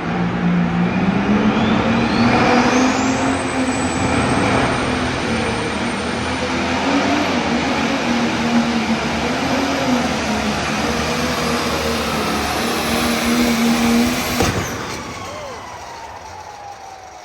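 Turbocharged diesel engine of a pro stock pulling tractor at full power during a pull, its high turbo whine rising over the first few seconds and then holding. About fourteen seconds in the engine cuts out suddenly and the turbo whine winds down. The team later finds the turbo gone.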